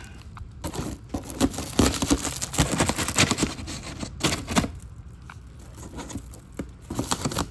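Packaging crinkling and rustling as car suspension parts are pulled out of their shipping box, with clicks and light knocks of the parts being handled. Busiest in the first half, sparser after about five seconds.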